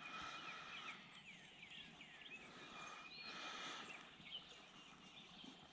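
Faint birdsong: many short chirps and a held high note that comes and goes.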